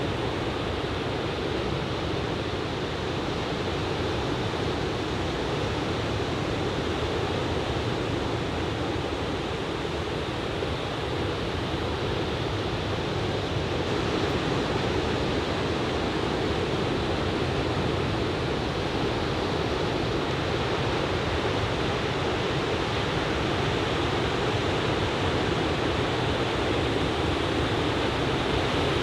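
Steady wash of ocean surf breaking on a beach, waist-to-belly-high typhoon swell, getting a little louder about halfway through.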